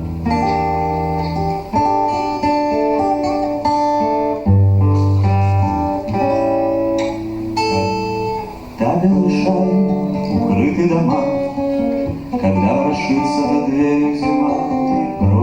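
Guitar music: a picked chord pattern over deep bass notes, the instrumental opening of a song, with a wavering melody line coming in about nine seconds in.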